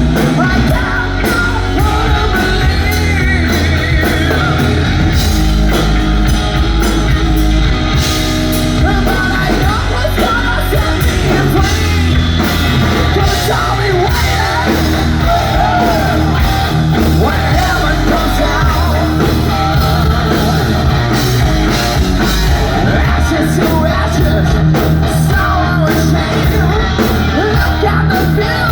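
Hard rock band playing live: electric guitar, bass and drum kit with a singer, loud and continuous.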